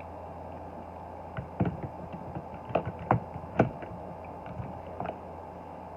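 Small diecast toy cars being handled and set down on a hard surface: a few short clicks and knocks, loudest about three and a half seconds in, over a steady low hum.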